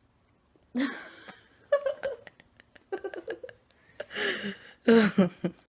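People laughing and giggling in several short, breathy bursts.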